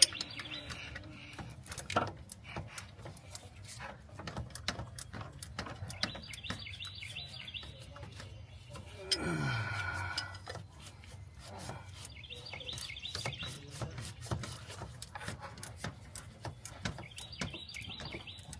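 Ratchet wrench clicking in runs as a bolt is turned over and over, with birds chirping in short bursts. About halfway through a person gives a low, falling groan.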